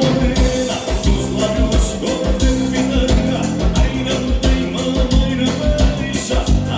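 Live gaúcho dance-band music with accordion, bass and a steady drum beat, with a voice singing faintly.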